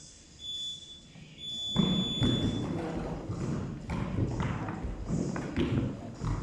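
Countdown timer beeps: a short high beep, then a longer start beep. About two seconds in, many irregular thumps of feet begin as a group sets off.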